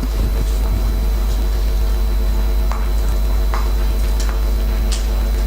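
Steady low electrical hum with a few faint scattered clicks.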